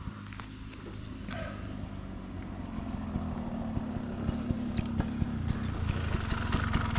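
Dirt bike engine running at low, steady revs while riding single-track trail, growing louder about halfway through, with many sharp knocks and clicks from the tyres and chassis over rocks.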